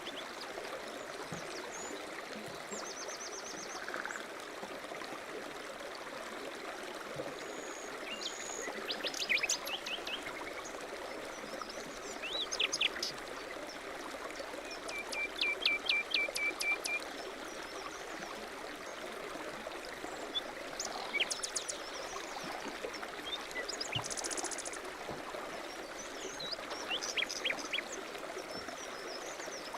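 Steady running of a stream with small songbirds calling over it: short chirps and quick trills come and go several times, the longest a rapid series of notes about halfway through.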